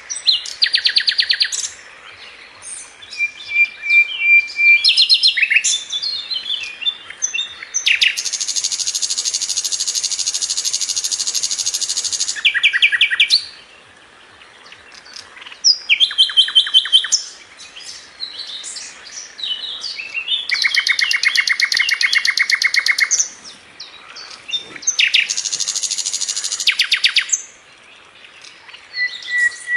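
Sikatan londo, a flycatcher kept as a songbird, singing hard in a fast, dense song. It gives long rattling trills of rapid repeated notes, several lasting a few seconds, broken by short chirps and thin steady whistles.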